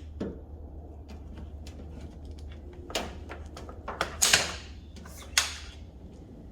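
A few sharp knocks and clatters of hand tools and hose fittings being handled, the loudest cluster about four seconds in, over a steady low hum.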